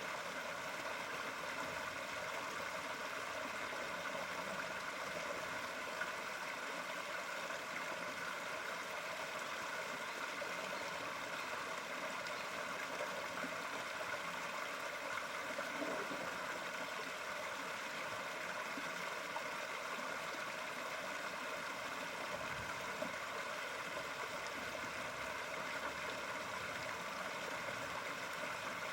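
Steady running water, a continuous even rush with no breaks.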